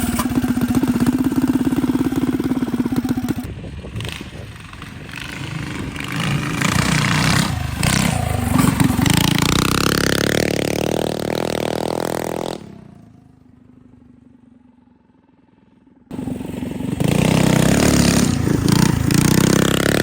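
Mini bike engine revving hard, its pitch climbing steadily for several seconds as it accelerates. Near the end it suddenly falls away to a faint sound for a few seconds, then comes back loud. The owner says the engine is not tuned right for the cold weather.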